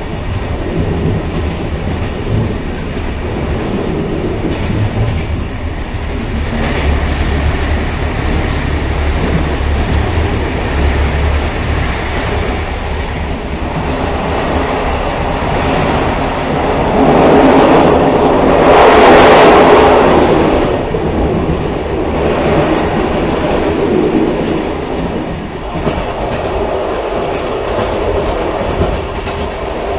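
Railcar running along the track: a steady rail rumble with a low hum, swelling louder for a few seconds just past the middle before settling back.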